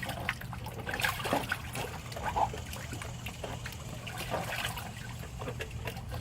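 Water trickling and splashing in short, irregular bursts as shoes and towels are swished about in a tub of water, over a steady low hum.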